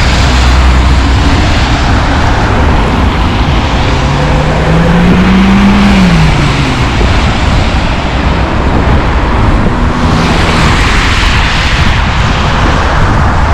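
Street traffic: cars passing close by, one vehicle's engine note rising and then falling about four to six seconds in.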